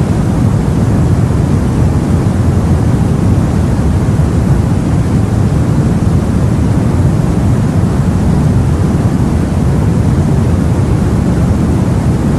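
Steady, loud, low rumbling of wind and sea, a storm-at-sea ambience without separate waves, knocks or other distinct events.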